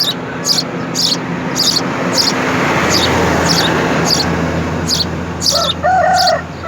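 A small bird chirps high and short about twice a second over a hiss like a passing vehicle that swells in the middle and fades. Near the end a rooster crows.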